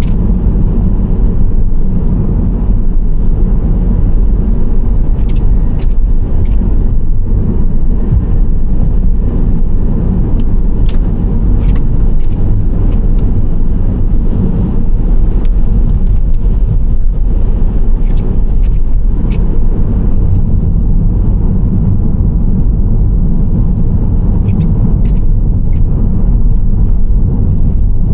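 Nissan Serena C25 minivan driving at steady speed: a loud, even low rumble of tyres on the road and engine. Faint brief high ticks occur now and then.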